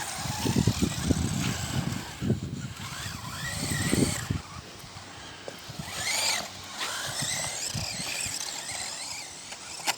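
Small electric RC trucks' motors whining as they rev up and down, with low rumbling bursts in the first few seconds.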